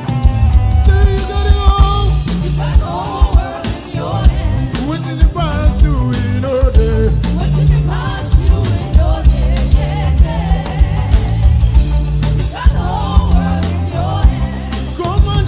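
Gospel worship song played by a live band with drums, bass and guitar, and voices singing over a steady beat.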